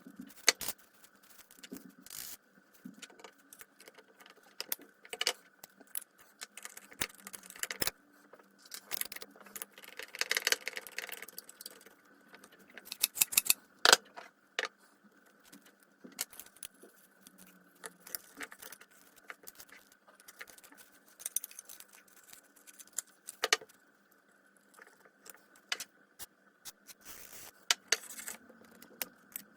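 Irregular metallic clicks and clinks of small metal parts and tools being handled while a Makita KS4000FX circular saw is taken apart, with a denser, noisier stretch about ten seconds in.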